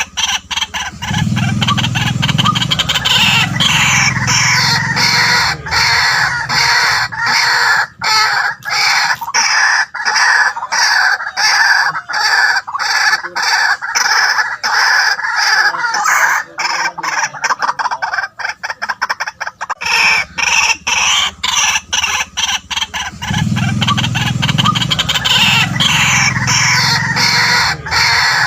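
White-breasted waterhen calling: long runs of harsh, rapidly repeated croaking notes with no pause, the kind of recorded call played to lure waterhens. The same call sequence comes round again about 22 seconds later.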